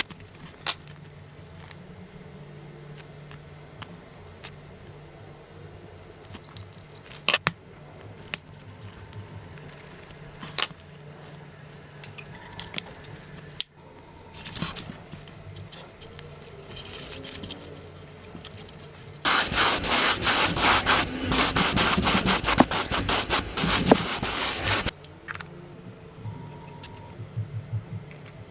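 Workshop work sounds: scattered clicks and light rubbing, then a loud stretch of rough, rapidly pulsing abrasive noise lasting about six seconds, near the end.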